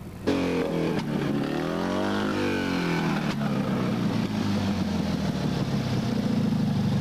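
Fiat 126p rally car's two-cylinder air-cooled engine running. It comes in abruptly, its revs dip, rise and fall back, then it settles into a steady idle.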